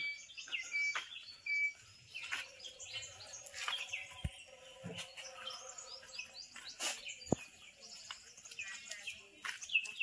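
Several birds chirping and calling, with short whistled notes in the first couple of seconds, and a few sharp clicks.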